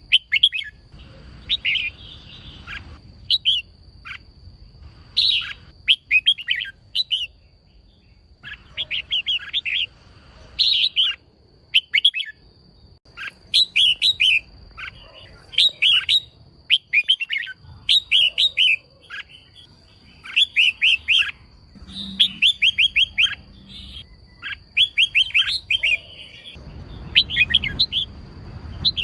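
Female red-whiskered bulbul calling in short bursts of quick, sharp chattering notes, one burst every second or two, over a steady thin high-pitched whine.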